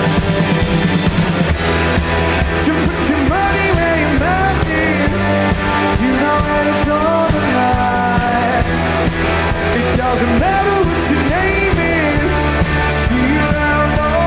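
Live rock band playing a song: steady bass and drums under electric guitars, with a melody line that slides and bends in pitch.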